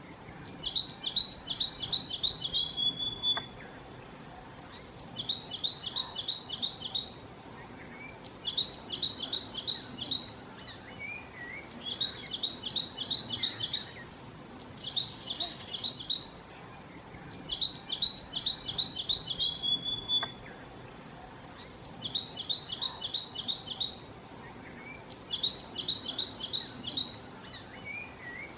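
Ashy prinia calling: bursts of six to eight rapid, sharp, high notes, each burst about two seconds long, repeated every three to four seconds. A couple of bursts end in a short buzzy trill.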